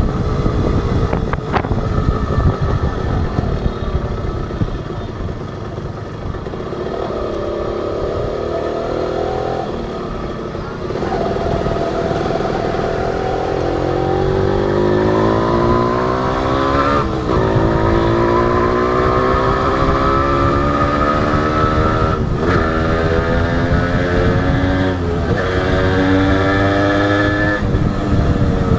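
Honda H100S single-cylinder two-stroke motorcycle engine under way, easing off for a moment, then accelerating hard through the gears: the engine note climbs, drops sharply at each upshift about every three to five seconds, and climbs again, over low wind rush.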